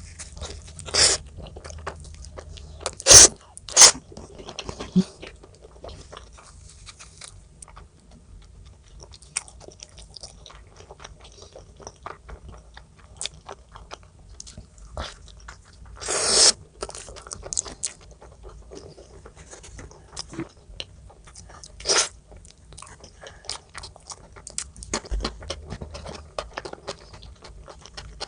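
Close-miked mukbang eating: chewing and crunching bites, made of many small clicks with a few sharper, louder crunches scattered through.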